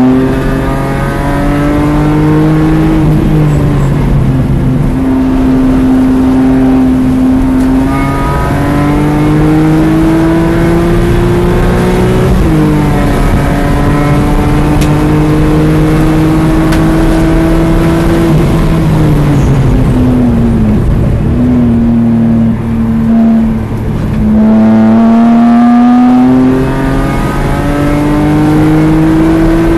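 BMW E46 M3's S54 inline-six heard from inside the cabin under hard acceleration on a track, rising in pitch with a quick upshift about twelve seconds in. The pitch falls as the car slows for a corner around twenty seconds, then climbs again near the end, over steady wind and tyre noise.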